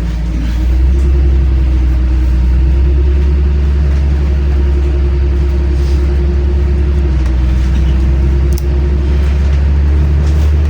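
LiAZ-5292 city bus heard from inside the cabin while under way: its diesel engine and drivetrain make a steady low rumble that swells about half a second in and then holds, with a faint whine above it.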